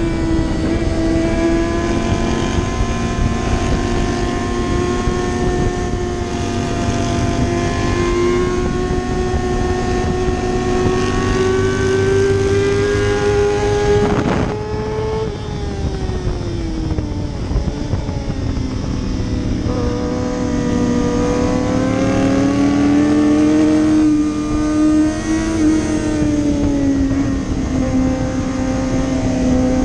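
Superbike engine running hard at high revs, its pitch slowly climbing for about fourteen seconds. Near the middle there is a brief crack and the revs drop sharply, then rise and fall again as the bike drives through corners, with rushing noise underneath.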